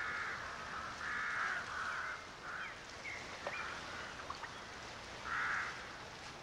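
Birds calling: a run of short harsh calls, four in the first three seconds and another near the end, with a few faint thin chirps between them.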